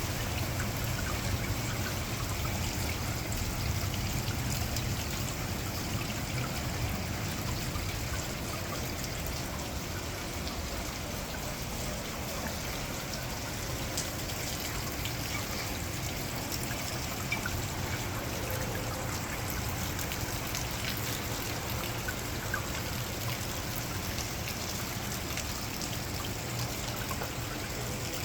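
Steady rain falling during a thunderstorm, with running water trickling and scattered drop ticks.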